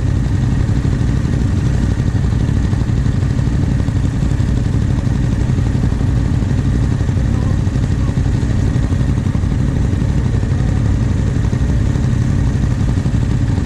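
Yamaha Ténéré 700's parallel-twin engine idling steadily at an even pitch, with no revving.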